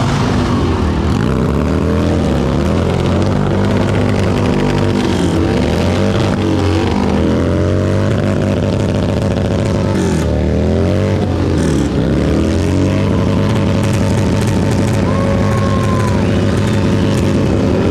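Motorcycle engines running at a crawl, with engine pitch dipping and rising a few times as the throttle is worked.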